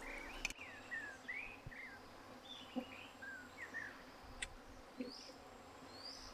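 Small birds chirping: a run of short, sliding chirps in the first few seconds, then higher chirps near the end, with a few faint clicks in between.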